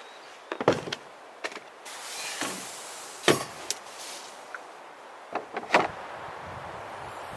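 Several sharp knocks and clicks in three small clusters, with a brief rustling swish in between, as of objects being handled and set down.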